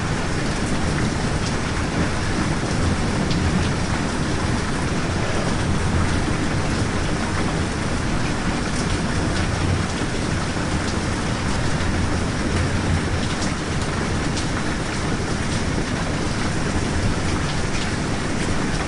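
Steady rain with scattered sharp drop ticks over a low rumble.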